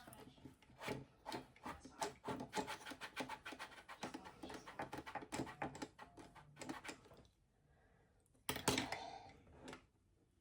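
A quick run of soft taps and rubs as makeup is dabbed and blended in with an applicator, then a brief pause and one louder knock near the end.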